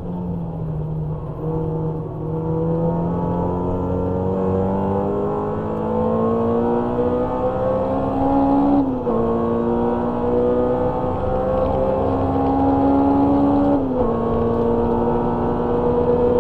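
Honda Civic EG6's four-cylinder engine heard from inside the cabin, accelerating with revs climbing steadily. Two upshifts, about 9 and 14 seconds in, each drop the revs suddenly before they climb again.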